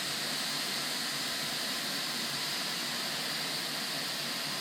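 Compressed-air vacuum brake bleeder hissing steadily as it sucks brake fluid out of the caliper through the open bleeder valve.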